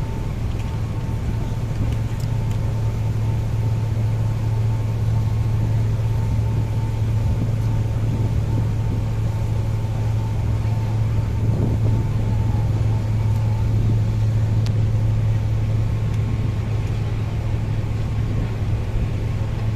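Steady low engine hum, unchanging throughout, with a faint thin whine above it that fades out about two-thirds of the way through.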